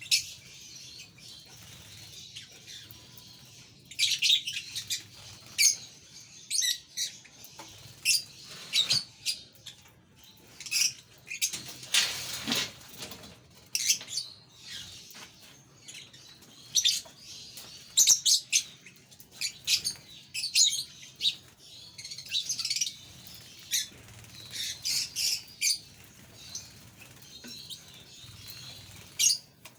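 A group of pet parrots chirping in short, high calls, scattered through the whole stretch, with bursts of wing flapping.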